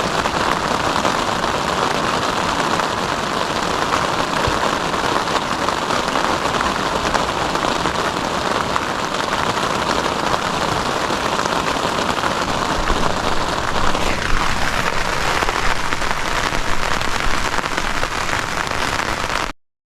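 Heavy rain falling steadily on a surface, a loud, even hiss, with a brief falling sweep in pitch about fourteen seconds in. The sound cuts off suddenly just before the end.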